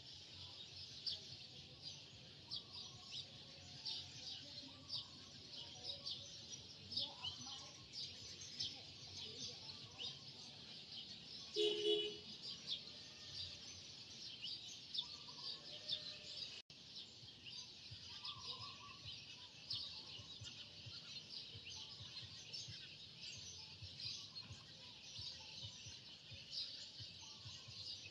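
Many small birds chirping continuously in a dense twitter. One brief louder sound comes about halfway through.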